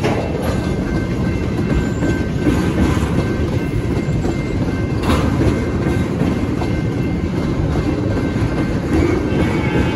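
Freight train of tank cars rolling slowly past, a steady rumble of steel wheels on rail with a clickety-clack over the joints. A sharp click comes near the start and another about five seconds in.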